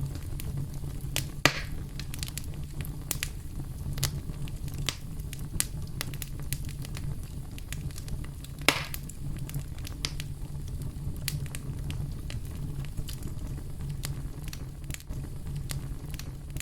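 Campfire crackling: a steady low rumble of burning wood with frequent small snaps and two louder pops, one about a second and a half in and one near the middle.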